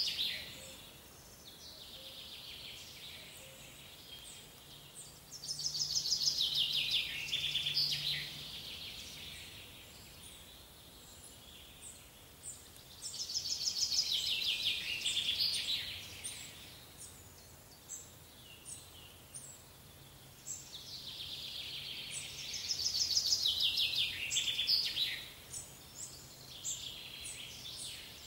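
A songbird singing the same fast trilled, falling phrase of about three seconds, three times about eight seconds apart, over a faint steady background noise.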